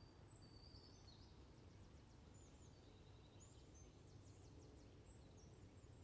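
Near silence: faint bird chirps and short trills, scattered through, over a low steady rumble.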